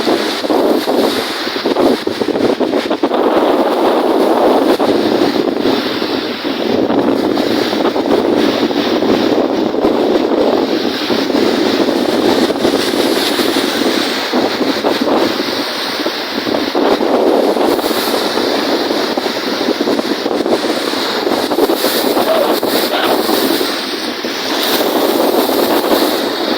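Strong wind buffeting the microphone over lake waves washing and breaking, a steady loud rush with frequent brief gusty hits.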